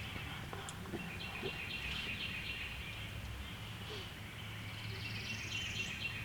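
Woodland ambience: small birds chirping over a thin, high, steady trill, with a faint rising trill near the end, above a steady low rumble of background noise.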